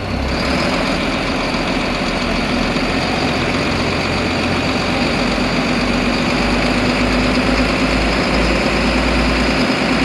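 Powerboat's inboard engine running loud and steady in its engine room, stepping up in level at the start as the boat is put under way and gathers speed.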